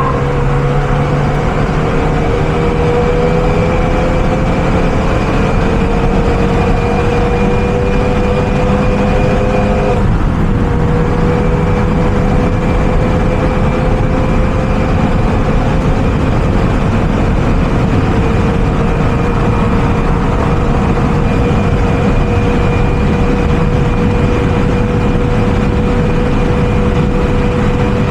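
Renault Mégane RS's turbocharged four-cylinder engine pulling under load at speed, its pitch climbing slowly, with a brief dip about ten seconds in as it shifts up, then climbing again and holding, over loud road and wind noise.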